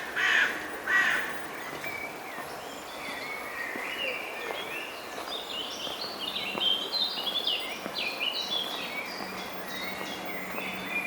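A crow gives two harsh caws at the start, then a small songbird sings a long, busy run of quick, high, varied notes.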